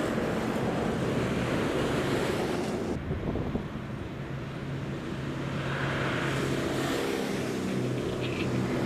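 Wind buffeting the microphone over rushing water for about the first three seconds, cutting off abruptly, then a steady low engine hum from a motor vehicle.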